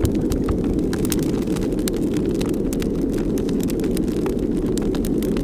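Wind buffeting the microphone: a steady low rumble with scattered light crackles over it.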